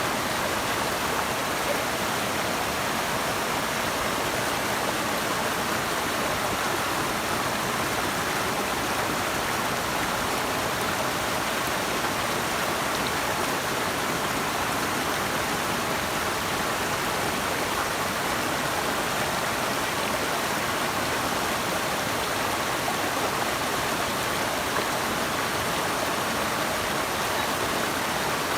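Steady, unbroken rush of running water, more hiss than low rumble, with no change in level.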